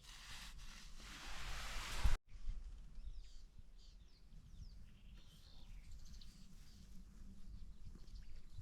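A rushing noise swells over the first two seconds and cuts off abruptly. Then faint, scattered bird chirps sound over a low rumble.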